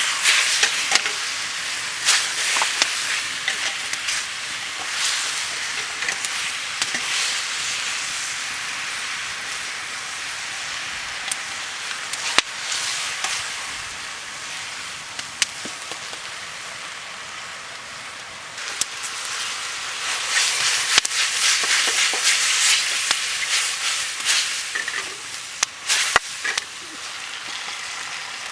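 Food sizzling as it is stir-fried in a pan over a campfire, with scattered clicks and taps. The sizzle grows louder about two-thirds of the way through.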